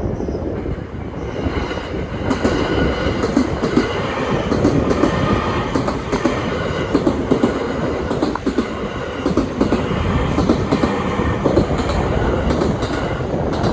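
A train running through a level crossing, its wheels clattering over the rail joints, growing louder about two seconds in.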